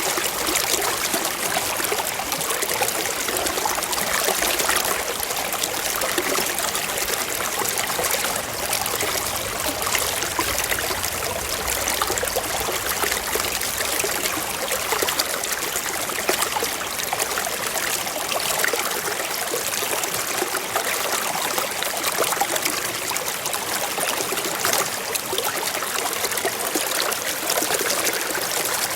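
Forest stream flowing and trickling over rocks, a steady splashing with many small bright plinks.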